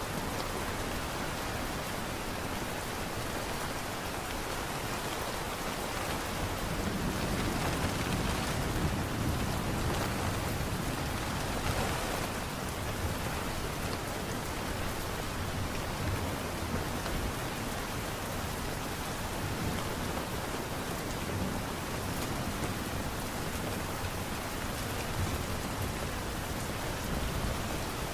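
Steady light rain falling, an even hiss of drops. In the middle a low rumble swells and fades beneath it.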